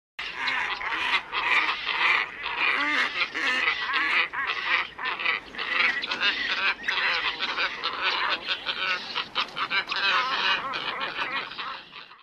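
A flock of black ibises calling together, many calls overlapping into a dense, continuous chorus. It cuts in abruptly just after the start and fades out near the end.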